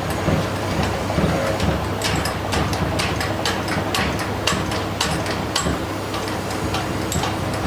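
A workshop machine running with a steady low hum and irregular clicks and knocks.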